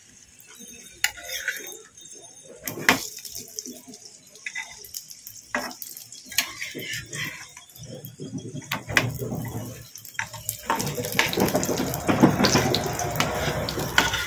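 Mughlai parathas frying in oil in a nonstick pan: sizzling, with a metal spatula clicking and scraping against the pan. The sizzle grows louder and denser over the last few seconds as a paratha is turned over.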